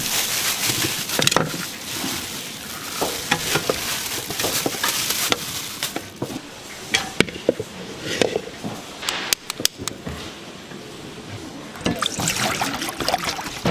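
Kitchen work: a steady hiss with liquid being stirred, broken by many sharp clacks of utensils, densest in the middle.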